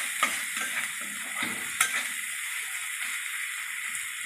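Crushed onion and green chillies sizzling in mustard oil in a metal kadai, with a metal spatula scraping and stirring through them for the first two seconds or so and a sharp clink of the spatula on the pan about two seconds in; then the sizzle goes on alone.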